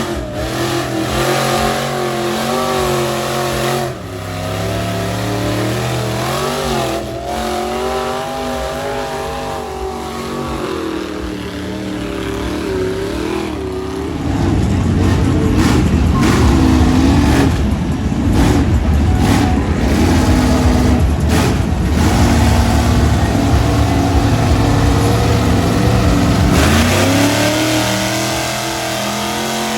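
Big off-road mud trucks' engines revving up and down repeatedly. About halfway through it grows louder and rougher, with a harsh, noisy spell of hard revving that eases off near the end.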